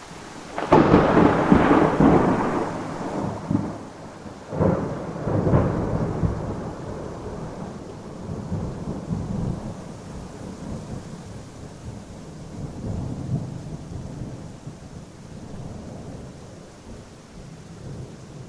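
Thunder: a sudden clap about a second in, rolling into a rumble with two more cracks a few seconds later, then dying away slowly, over the steady hiss of rain.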